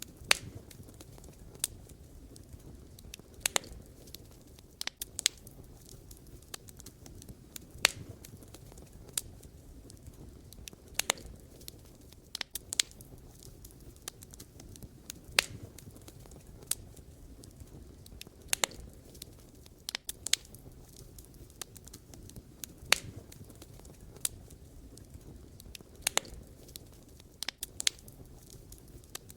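Wood fire burning, with irregular sharp crackles and pops from the burning logs over a low steady rumble of flame.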